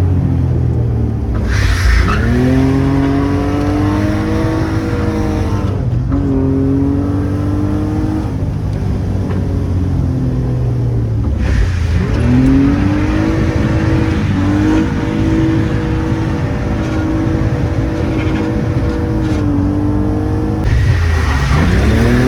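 A car engine driven hard: the revs climb sharply under throttle about two seconds in, again about twelve seconds in and near the end, each time holding high before breaking off and falling at a shift or a lift.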